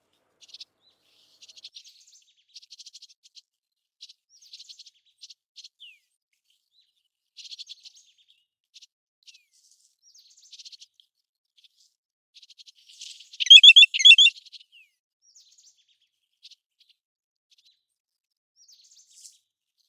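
American golden plover calling: short, faint bursts of high chirping notes scattered throughout, with one much louder burst of quick rising and falling notes about two-thirds of the way in.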